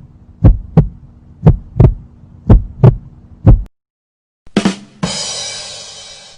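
Heartbeat sound effect: paired lub-dub thumps about once a second over a low hum, stopping after about three and a half seconds. After a short pause comes a 'ba-dum tss' rimshot: two quick drum hits, then a cymbal crash that rings and fades.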